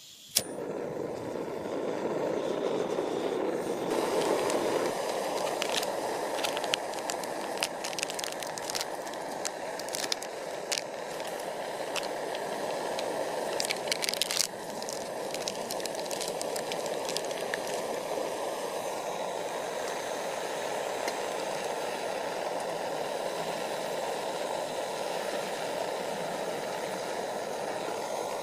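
Campfire burning with a steady rushing hiss and scattered sharp crackles and pops of burning wood, the pops thickest in the first half.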